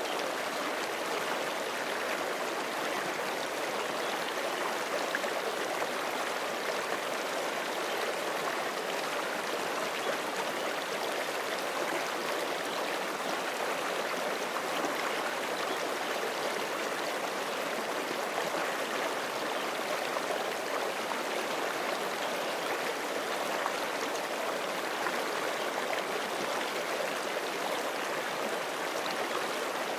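Forest creek flowing steadily over rocks, a continuous rushing and babbling of running water with no breaks.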